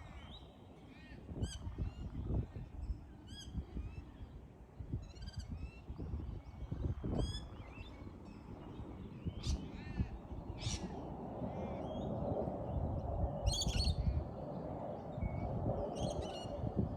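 Birds calling again and again in short, arching chirps, over a steady low background rumble that grows a little louder in the second half.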